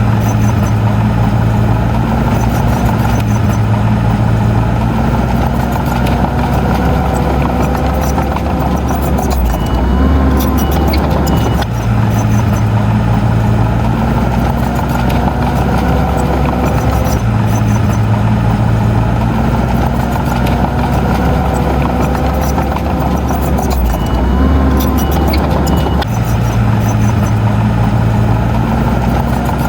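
Diesel engine of heavy earthmoving machinery running continuously, its low note changing every few seconds as the load and throttle vary. Short high beeps come twice, about ten seconds in and near the end.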